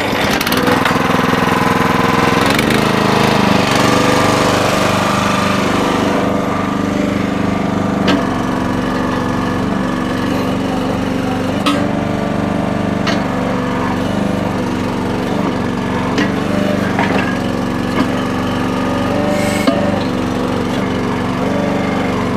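Small gasoline engine of a Red Rock towable mini backhoe starting and running steadily while the machine is worked, with sharp metallic clanks every few seconds.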